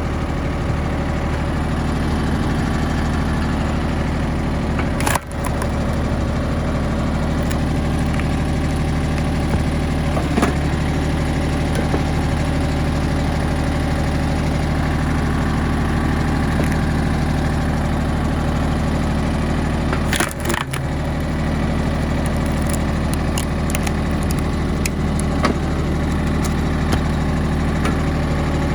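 Yanmar YM1820D compact tractor's three-cylinder diesel engine running steadily, with a few sharp knocks about 5, 10 and 20 seconds in.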